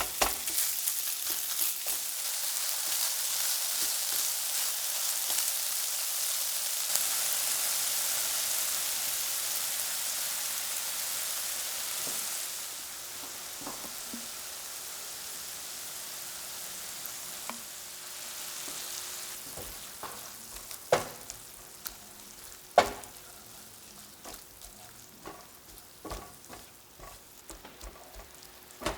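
Food sizzling in a hot frying pan as it is stirred. The sizzle is loud at first, drops off about twelve seconds in and fades further. Two sharp knocks of a utensil on the pan come near the end, followed by light ticks.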